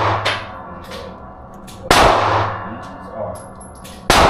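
Two pistol shots from a Glock 45, about two seconds apart, each a sharp crack that rings out and dies away.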